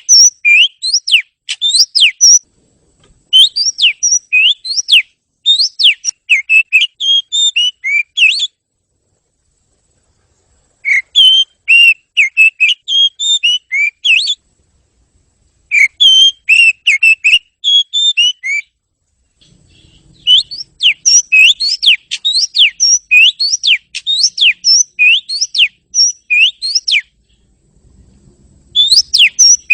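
Oriental magpie-robin (kacer) singing: phrases of a few seconds made of rapid, clear whistled notes, broken by short pauses.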